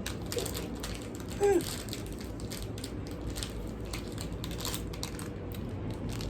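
Hand can opener being worked, a steady run of small mechanical clicks, with a brief voice sound about a second and a half in.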